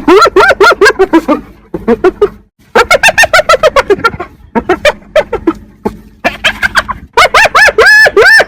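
Hyena giggling: runs of rapid high-pitched notes, each rising and falling, several a second, in short bouts broken by brief pauses.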